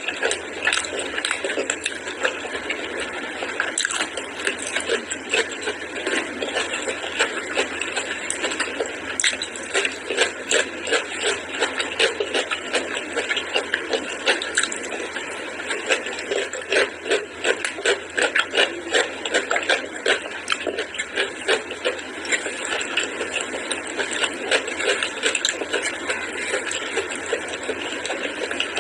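Close-up eating sounds: wet chewing and lip-smacking of rice and curry eaten by hand, a continuous stream of quick sticky clicks.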